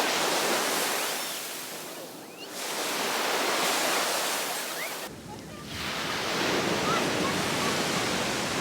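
Sea surf breaking and washing up a beach, the rush of water swelling and ebbing about three times.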